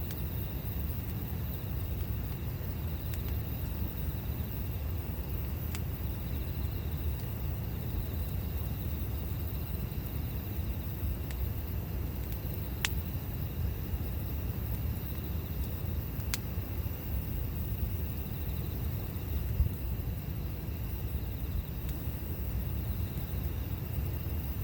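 Campfire burning: a steady low rumble with a few isolated sharp pops from the fire, the clearest about thirteen seconds in.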